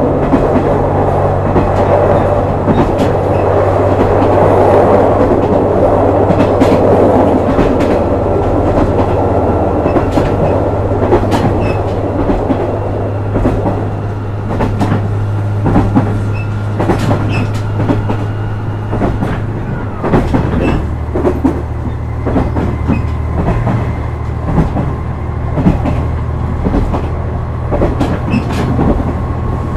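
KiHa 126 series diesel railcar under way: steady diesel engine drone under rolling noise, with rhythmic clacks of the wheels over rail joints. The engine note changes about two-thirds of the way through.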